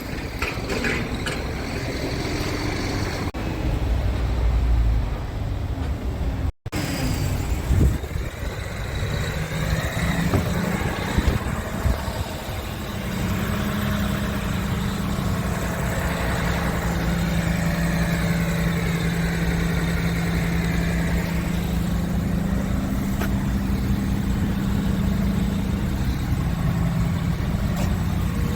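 Scania R450 truck's 13-litre inline-six diesel engine running and then idling steadily, with wind on the microphone in the first few seconds.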